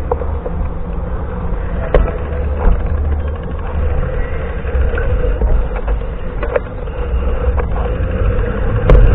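Wind buffeting the microphone of a camera on a moving bicycle, a loud steady low rumble mixed with road noise, with a few sharp knocks about two seconds in and near the end.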